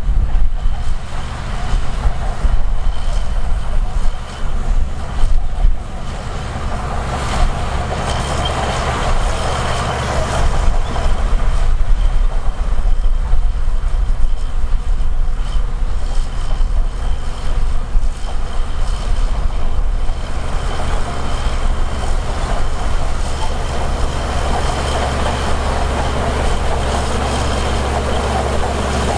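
Heavy diesel earthmoving machinery running steadily under load, a low engine rumble with a faint high whine over it.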